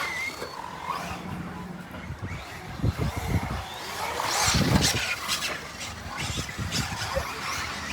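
Radio-controlled cars running, with irregular knocks and clatter and a louder burst of noise about four and a half seconds in.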